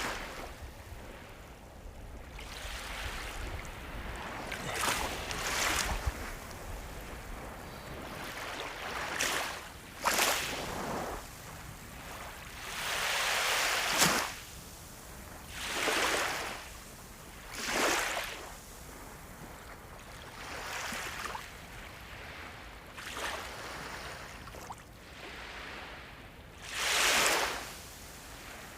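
Ocean waves breaking and washing in: surging rushes of surf that swell and fade every few seconds over a steady background hiss. The loudest rushes come about halfway through and near the end.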